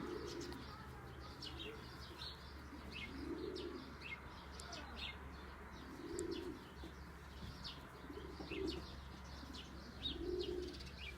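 Pigeons cooing faintly, a low coo about every two to three seconds, five in all, with short high bird chirps scattered throughout.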